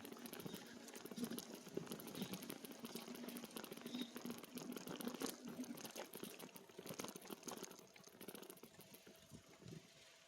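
E-bike tyres rolling over a rough trail surface with a dense, fine crackle and crunch, under a faint steady hum from the bike that fades about eight seconds in.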